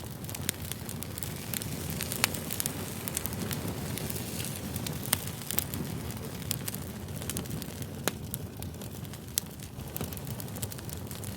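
Campfire burning: a steady low rush of flames with frequent sharp, irregular crackles and pops from the burning wood.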